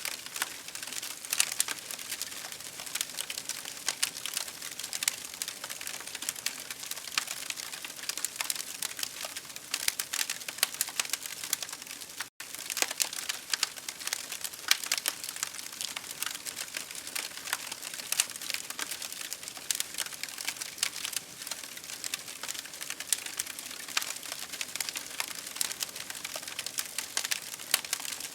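Campfire crackling: dense, irregular pops and snaps over a steady hiss, cutting out for an instant about twelve seconds in.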